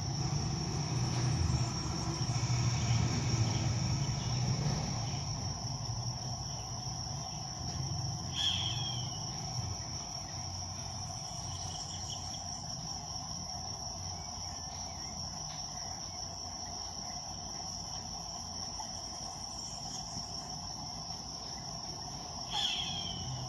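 Steady high-pitched insect drone, with two short downward-sliding calls of a roadside hawk, one about a third of the way in and one near the end. A low engine rumble fades out over the first few seconds.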